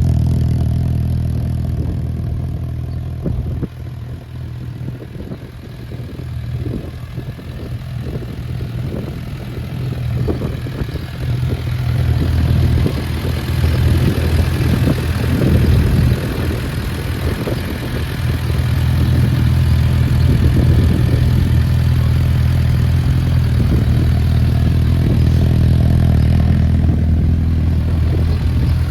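Suzuki GSF650S Bandit's inline-four engine idling through a Black Widow aftermarket exhaust fitted with a dB killer, a steady low exhaust note. It grows quieter a few seconds in, then louder again toward the middle.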